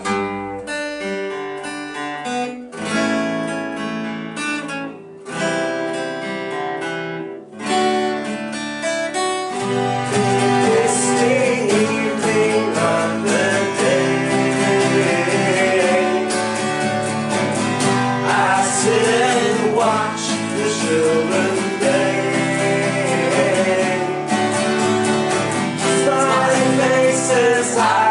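Acoustic guitar chords in four short phrases with brief breaks, then from about ten seconds in a fuller, continuous song accompaniment on guitar with a wavering melody line over it.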